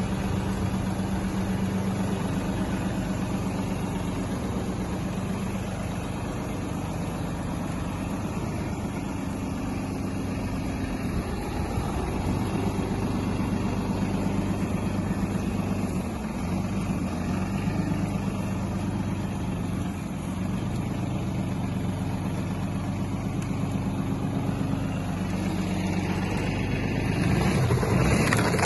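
Old Japanese tractor's engine running at a steady idle, getting louder and rougher near the end.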